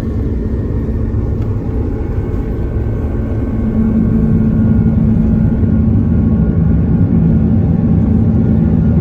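Cabin noise of an Airbus A330-343 during takeoff, heard from inside the cabin: its Rolls-Royce Trent 700 engines at high thrust and the airflow make a loud, steady rumble with a steady hum. It grows louder about four seconds in.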